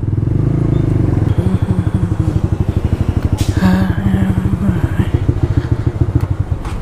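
Motorcycle engine running under way, a steady rapid throb of firing pulses. About halfway through, a brief pitched tone and a rushing noise join it for a second or so.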